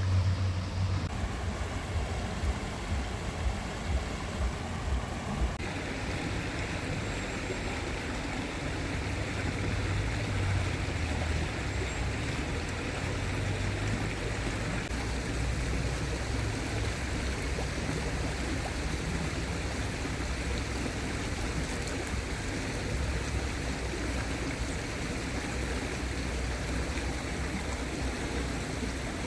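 A stream flowing with a steady rush of water, and a low rumble underneath.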